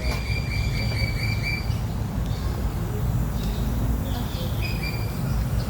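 A high-pitched, rapidly pulsing trill from an animal, held for about two seconds and then repeated briefly near the end, over a constant low rumbling noise.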